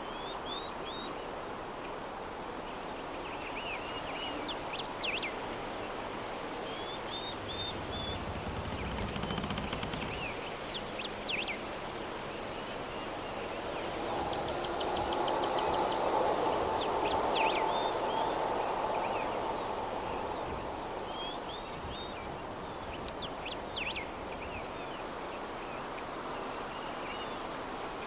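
Soft steady breeze with small birds chirping in short, scattered calls and one quick trill. The breeze swells in a gust about halfway through, then settles.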